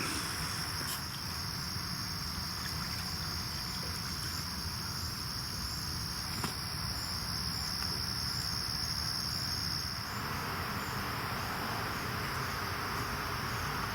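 Steady insect chorus, a continuous high-pitched trill like crickets, over a low background rumble. A higher, thinner part of the trill drops out about ten seconds in.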